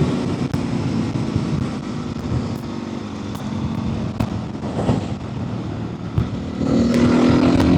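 Motorcycle with its stock exhaust running down the road, the engine note mixed with rushing wind noise on a helmet mic. Near the end the engine pulls harder with a louder, slightly rising note.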